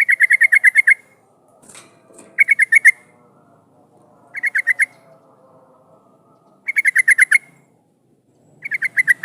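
Yellow-vented bulbul (trucukan) calling in five bursts of rapid chattering notes, about ten notes a second, one burst every two seconds or so. It is a lively, insistent bird of the kind played as a lure to draw other bulbuls into answering.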